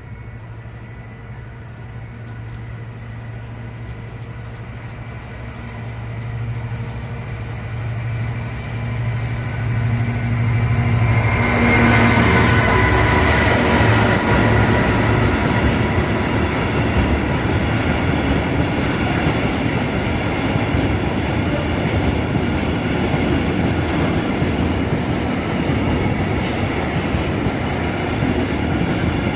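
A Class 66 (JT42M) diesel freight locomotive's two-stroke EMD engine drones louder as it approaches and passes about twelve seconds in. Then a long train of loaded coal wagons rolls steadily past, with wheels clacking over the rail joints.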